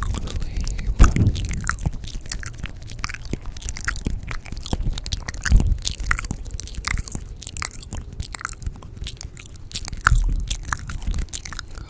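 Layered ASMR trigger sounds: a dense run of quick crunchy clicks, close to the microphone, with a low thump about a second in, another about halfway and another near the end.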